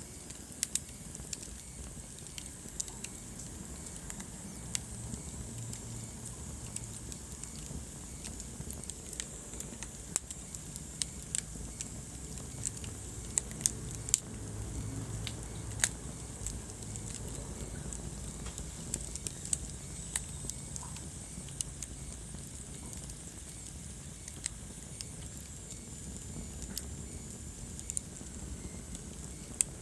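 Wood fire burning in a fireplace: irregular sharp crackles and pops, a few louder ones, over a low steady rumble of the flames.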